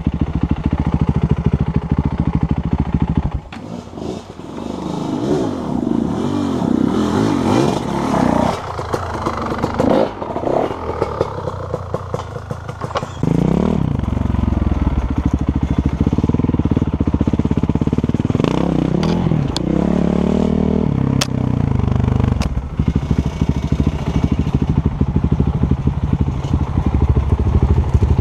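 Dirt bike engine ridden off-road, its pitch repeatedly rising and falling as the throttle is opened and closed, easing off briefly twice, with knocks and clatter from the bike over rough ground.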